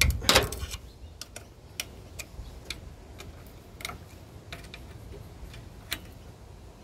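Hand tools working the generator's bolts: a short clatter at the start, then light, irregular metallic clicks about two a second.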